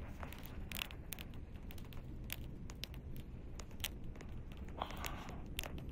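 Campfire crackling: irregular sharp pops and snaps of burning wood over a low steady background rumble.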